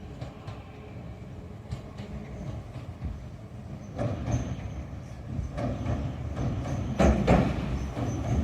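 Shizuoka Railway electric train approaching and getting louder, its wheels clacking over rail joints, the clacks strongest near the end.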